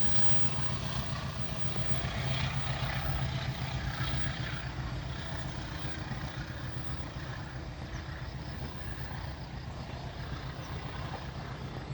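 Diesel locomotive prime mover running with a steady low rumble that slowly fades over the second half.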